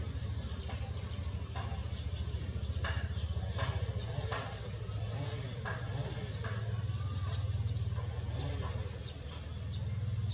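Forest ambience dominated by a steady, high-pitched chorus of insects, over a low steady hum. Two short, high chirps stand out, about three seconds in and again near the end.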